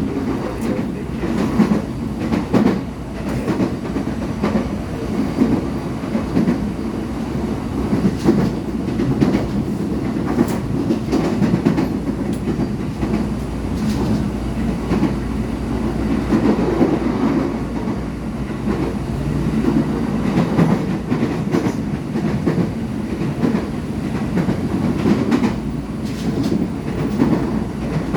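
KRL Commuter Line electric train running, heard from inside the carriage: a steady rumble with the clickety-clack of the wheels over rail joints.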